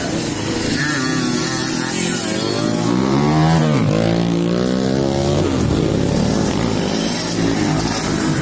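Trail motorcycle's 'batok' engine running and being revved up and down, its pitch climbing, dropping sharply about four seconds in, then rising again before settling.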